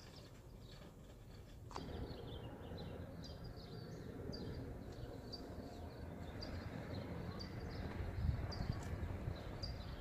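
Small birds chirping: many short, high chirps repeating from about two seconds in, over a low outdoor rumble that grows louder toward the end.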